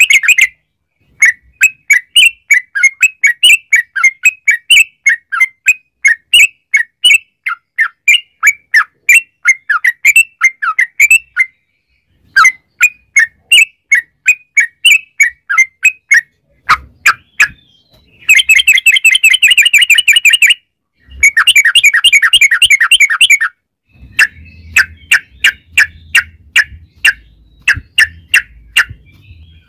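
Trucukan (yellow-vented bulbul) singing: quick runs of short chattering notes broken by brief pauses, with two long dense rolling trills in the middle. A faint low hum sits under the song near the end.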